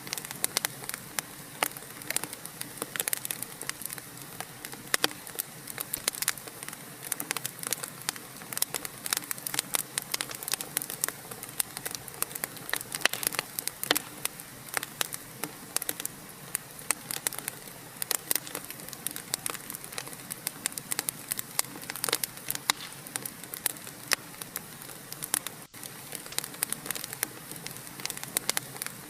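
Wood fire crackling steadily, with many sharp irregular pops and snaps over a soft hiss. The sound drops out for an instant about 26 seconds in.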